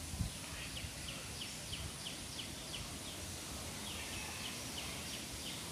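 Steady background hiss with a small bird chirping over it, short high chirps repeating a few times a second.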